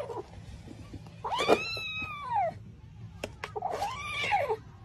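Ginger tabby cat yowling at its food bowl as a finger reaches into it: two drawn-out calls, each rising then falling in pitch, the first longer and louder, with a couple of sharp clicks between them.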